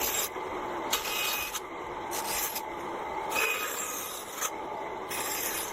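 Wood being scraped by hand with an abrasive tool, in slow back-and-forth strokes about once a second.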